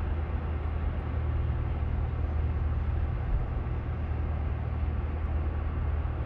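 Steady road and engine noise inside a moving car's cabin: a constant low drone with tyre and wind hiss and no sudden events.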